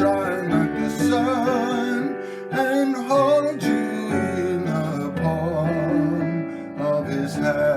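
A hymn sung with a wavering vibrato over strummed acoustic guitar.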